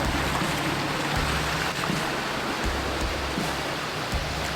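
Off-road 4x4's engine running steadily at low revs as it creeps down a muddy lane, under a continuous rushing noise.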